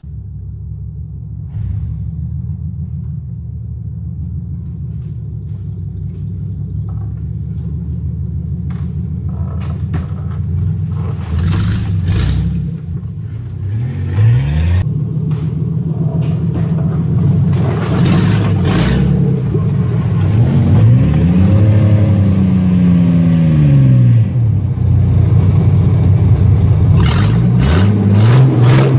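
Truck engine running and being revved, its pitch rising and falling several times and getting louder overall, with scattered knocks and rattles.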